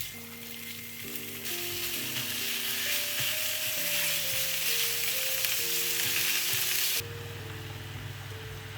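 Food sizzling as it fries in a pan, growing louder about a second and a half in and dropping away abruptly near the end, with soft background music.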